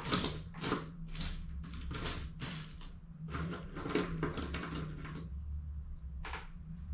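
Repeated short rubbing or scraping strokes, about two a second, from hands working on an HP CE285A laser toner cartridge, over a steady low hum.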